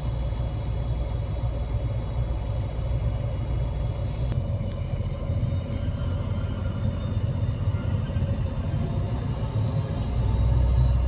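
Scania Irizar i5 coach on the move, heard from inside the cabin: a steady low engine and road rumble with a faint steady whine above it. There is one sharp click about four seconds in, and the rumble grows louder near the end.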